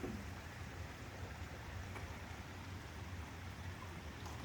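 Faint, steady rush of a creek's low-flowing waterfall, a soft even wash of water with a low rumble beneath.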